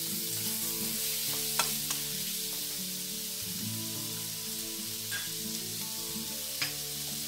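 Shrimp frying in butter and oil in an aluminium wok over a gas flame, with a steady sizzle. A few sharp taps cut through it, the loudest about a second and a half in as the spatula stirs against the wok. Soft background music with held chords runs underneath.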